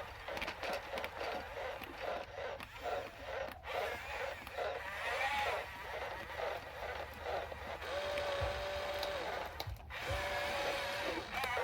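Small electric motors of radio-controlled toy construction vehicles whining in short, wavering pulses as the controls are worked, then two steadier whines that ramp up, hold for about a second, and wind down.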